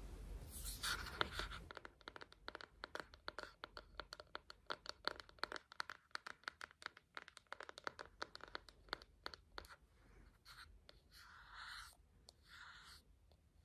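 ASMR hand sounds close to the microphone: a louder brushing at first, then quick, light finger scratching and tapping, many small ticks in a row, easing into a few soft rubbing swishes near the end.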